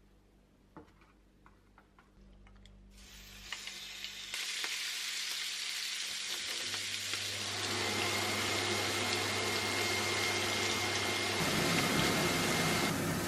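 Shrimp sizzling in hot oil in a frying pan as they are stir-fried with wooden tongs. The sizzle starts about three seconds in and grows louder and steadier, after a few light clicks.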